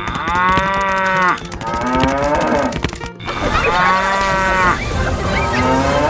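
Cattle mooing: four drawn-out calls in a row, each arching up and down in pitch, over steady background music.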